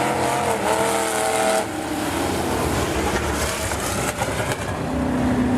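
Demo race cars running on the track, several engines at racing speed. A close car's wavering engine note drops away sharply about a second and a half in, leaving a lower, rougher rumble from the pack until another engine note comes in near the end.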